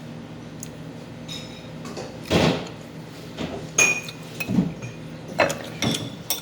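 Spoon and fork clinking against a plate and bowl during a meal: about six sharp knocks and clinks in the second half, one with a short ringing tone.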